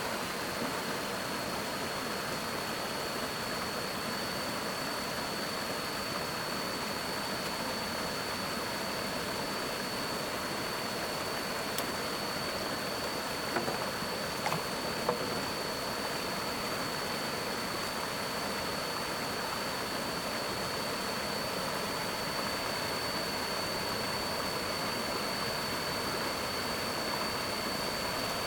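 Steady rushing of a flowing stream, with a constant high-pitched whine above it and a few faint knocks around the middle.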